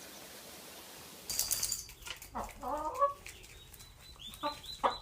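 Chicken clucking in several short, pitched calls, after a sudden burst of rustling about a second in.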